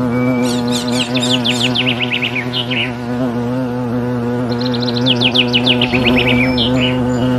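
A songbird sings two rapid trilled phrases of falling notes, the first about half a second in and the second near five seconds. Under them runs a steady low buzzing hum.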